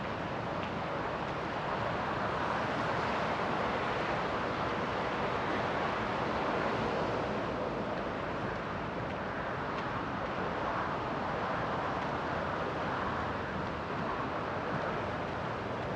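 Distant road traffic: a steady rushing hiss that swells over the first half and then eases a little.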